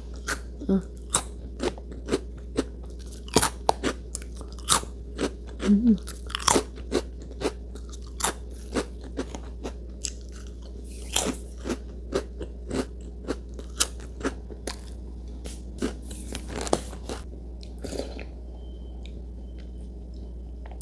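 Crunching and chewing of a crisp taro snack close to the microphone. Sharp, irregular crunches come about one or two a second and thin out near the end.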